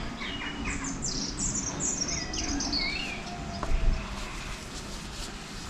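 A songbird singing: a run of quick chirps stepping down in pitch, ending in a short twittering flourish. A light knock sounds about four seconds in.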